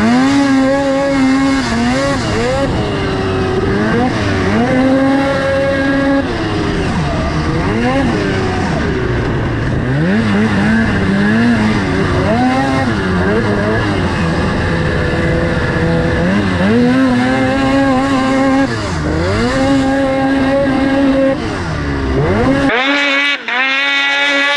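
Polaris IQ 600R race snowmobile's two-stroke engine revving hard, its pitch climbing and dropping again and again as it is throttled up and backed off around the track. Near the end the sound abruptly thins out, losing its low end.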